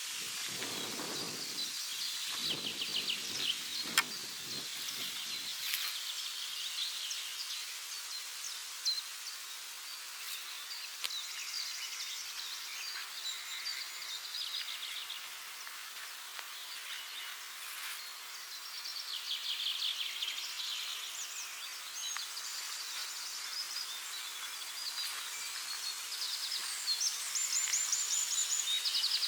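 Several forest birds singing, overlapping chirps and quick trills throughout. A low noise underlies the first six seconds.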